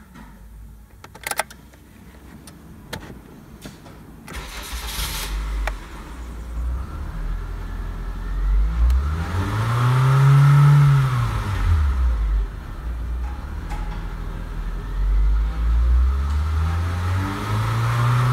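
Nissan SR20DE 2.0-litre inline-four engine started after a couple of clicks, cranking and catching about four seconds in. It is then revved up to about 4000 rpm and back down, and revved again near the end.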